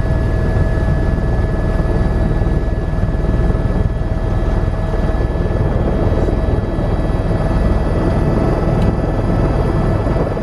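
Tour helicopter in flight: steady, fast rotor-blade chop under a constant turbine whine. It cuts off abruptly at the end.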